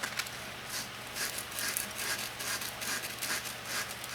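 Sandpaper scrubbing back and forth on the metal tip of a butane soldering iron in quick strokes, about two or three a second, rubbing off corrosion, over a steady low hum.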